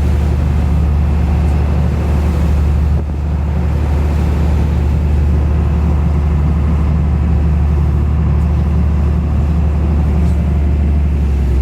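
Fishing boat's engine running steadily under way: a loud, even low drone with a rushing noise over it, dipping briefly about three seconds in.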